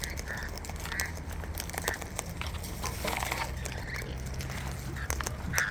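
A flock of wild birds feeding on seed: a dense run of small clicks and crackles from beaks and claws working the seed and trays, with a few short calls.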